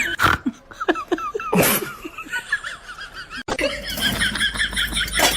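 People laughing, with two short breathy bursts in the first two seconds. The sound cuts off abruptly about three and a half seconds in.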